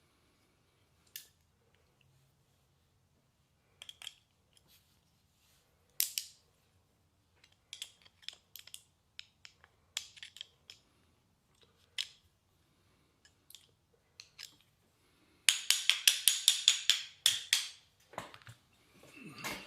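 Small metal carburetor parts and hand tools clicking and tapping on a workbench during a carburetor teardown: scattered single clicks, a quick run of loud rapid clicks about three-quarters of the way in, and a scraping sound near the end.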